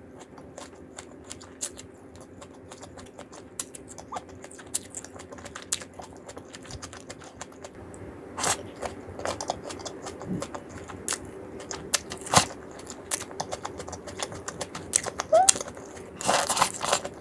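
Close-up biting and chewing of fried chicken: irregular crisp crunches and mouth clicks, growing louder and busier about halfway through, over a faint steady hum.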